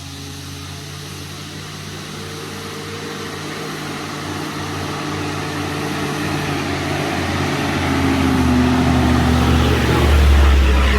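A motor vehicle coming up the road, its engine hum growing steadily louder until it is close and loudest near the end.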